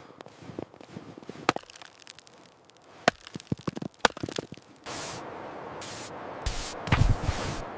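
A run of sharp cracks and snaps, then from about five seconds in a steady rushing noise with low thumps over it.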